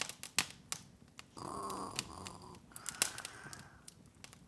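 Open fire crackling, with irregular sharp pops. About a second and a half in, a soft humming sound lasting about a second sits under the crackle.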